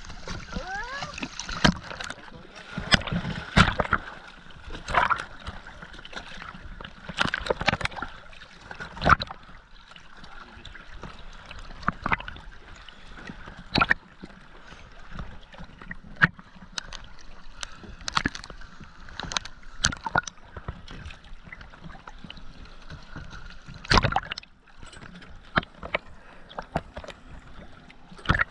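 Sea water sloshing and splashing at the surface beside a dive boat, with irregular sharp splashes and knocks.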